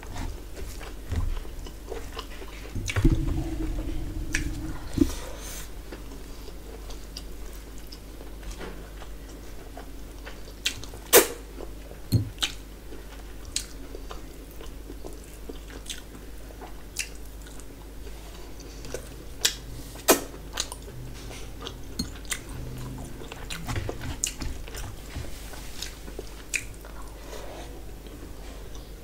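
Close-miked eating by hand: chewing and wet mouth sounds with sharp, irregular clicks, and fingers mixing rice and curry on a steel plate. A louder low sound comes about three seconds in.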